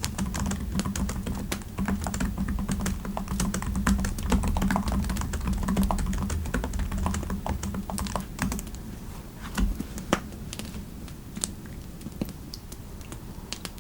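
Typing on a computer keyboard, quick key clicks over a steady low rumble, slowing to scattered taps and growing quieter in the second half.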